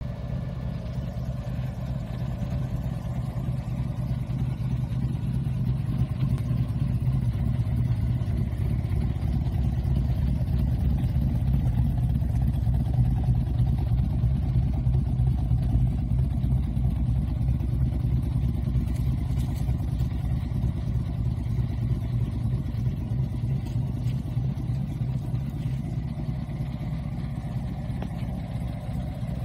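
1932 Ford Highboy roadster hot rod's engine idling steadily, its low exhaust note growing somewhat louder in the middle and easing toward the end.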